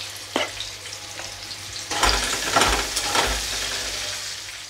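Potato chunks sizzling in hot oil in a karai. About two seconds in, a spatula stirs and turns them, and the scraping and sizzle get louder for a second or so.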